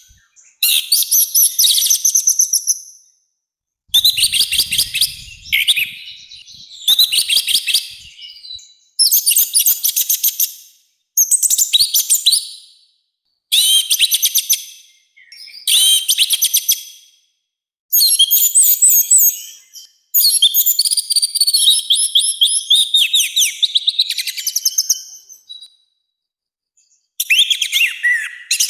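Orange-headed thrush singing loud, harsh full song: about a dozen phrases of rapid high notes, each a second or two long with short pauses between. Past the middle comes one longer unbroken run of several seconds.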